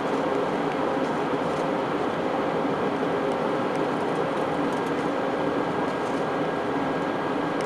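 Steady cabin drone of an Airbus A320-232 in flight: engine and airflow noise heard from inside the passenger cabin, even and unchanging, with a faint steady hum running through it.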